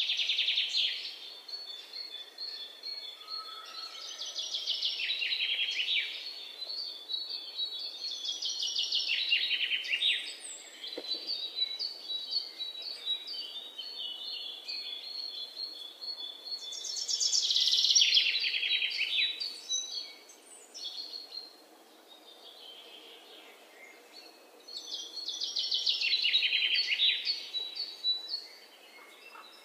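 Birdsong: a songbird repeatedly sings rapid trilled phrases that drop in pitch, each about two seconds long and coming every few seconds, with thinner high chirping notes in between.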